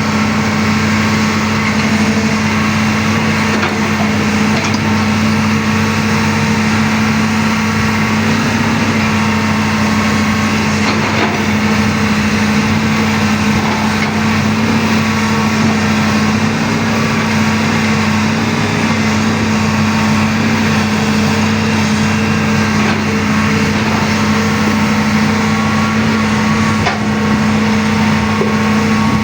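Excavator engine running steadily with a constant hum that does not rise or fall.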